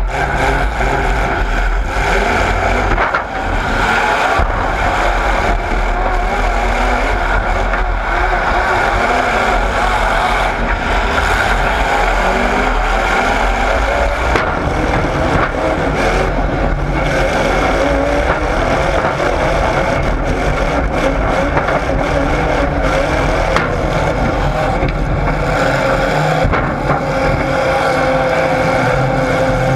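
Motor vehicle engines running and revving, loud and unbroken, with several engine pitches overlapping.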